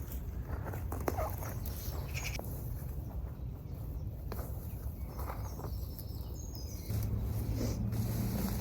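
Outdoor garden ambience: a steady low rumble with scattered rustling and crackling, and a few short, high bird chirps. A low droning hum comes in about seven seconds in.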